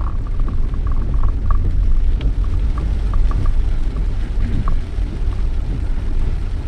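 Steady low rumble of a car on the move, heard from inside the cabin, with scattered faint light ticks.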